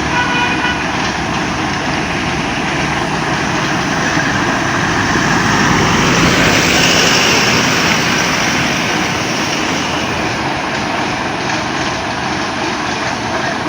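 Truck engine running steadily, getting louder about halfway through and easing off again.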